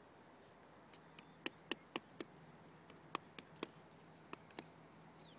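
A series of sharp wooden clicks and knocks in small groups, from sticks being handled and set into the ground to build a shelter, over faint outdoor background noise.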